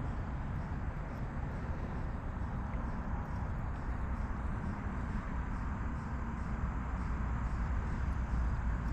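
Steady riverside outdoor ambience: an even wash of noise with a low rumble underneath and faint, regularly repeating high chirps.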